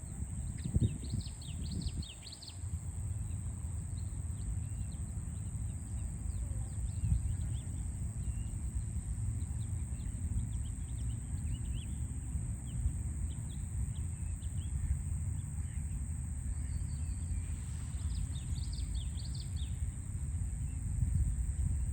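Songbirds chirping in short high clusters, about a second in and again near the end, with scattered single chirps between, over a steady low rumble of distant city traffic and a steady high hiss.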